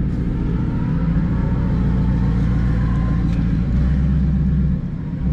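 Twin-turbocharged Ford Coyote 5.0 V8 of a 2019 Mustang GT with a Corsa Extreme cat-back exhaust, running steadily at idle, heard from inside the cabin. The level dips briefly near the end.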